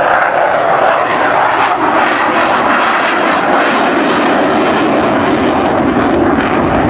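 Loud, steady engine noise from a fixed-wing airplane.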